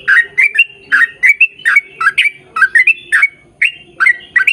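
A bird calling over and over in short, loud, sweeping calls, about three a second.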